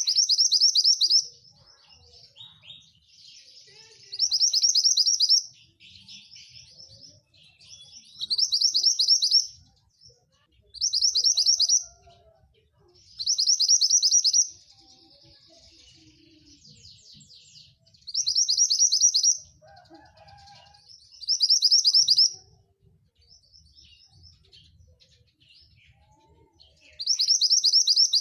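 Javan bush lark (branjangan) singing: about eight loud, rapid trilled phrases of a second or so each, repeated every few seconds, with softer twittering notes between them.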